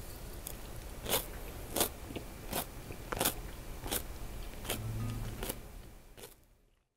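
Close-up chewing of crisp pickled cucumber and eggplant in wasabi sauce, with about seven evenly spaced crunches, fading out near the end.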